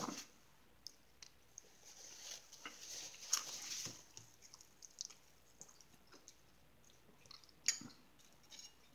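A person quietly chewing crackers, with scattered small clicks and a rustle about two to four seconds in, and one sharper click near the end.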